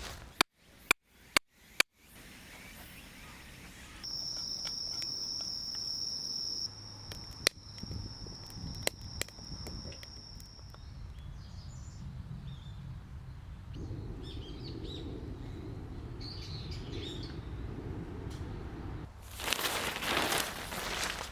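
Outdoor nature sounds: four sharp clicks in the first two seconds, then a steady high whine for several seconds, scattered bird chirps, and a loud burst of noise near the end.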